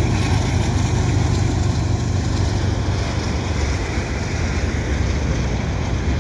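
Freight train of tank cars rolling past on the rails: a steady, loud, low rolling noise of wheels on track.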